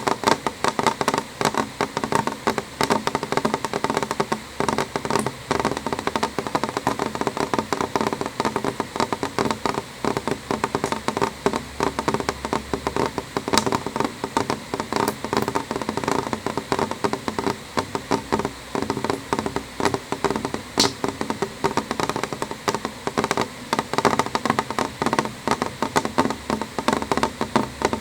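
Rain falling on a window pane: many irregular drops tapping on the glass without a break, with an occasional sharper tick.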